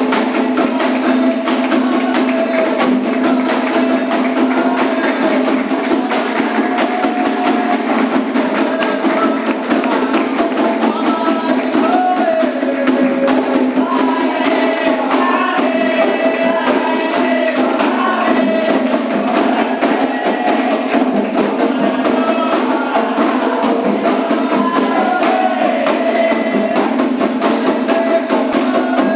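Candomblé ritual music: hand drums played continuously, with a struck time-keeping instrument and group singing over them.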